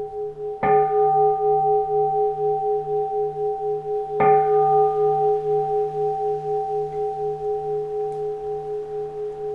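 Keisu, a Japanese Buddhist bowl bell, struck twice about three and a half seconds apart. Each strike rings on in a long, pulsing hum that slowly fades.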